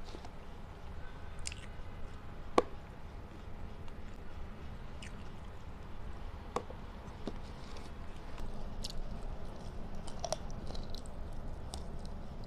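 A person chewing and biting food close to the microphone, with scattered small wet clicks and crunches. One sharp click about two and a half seconds in is the loudest sound.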